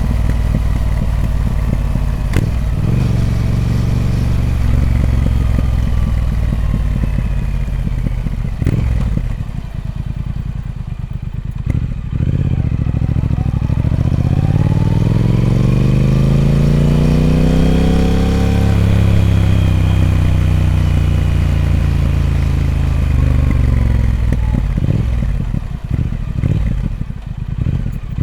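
Triumph Speed Twin 1200's parallel-twin engine through its stock exhaust, running under way: steady at first, dipping briefly about ten seconds in, then pulling with pitch rising smoothly to a peak about two-thirds of the way through and falling again as the throttle eases off.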